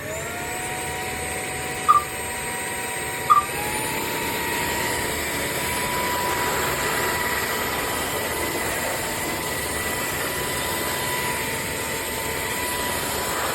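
Cordless wet-dry floor vacuum running steadily. Its motor whine climbs in pitch over the first few seconds as it spins up, then holds level. Two short chirps come about two and three seconds in.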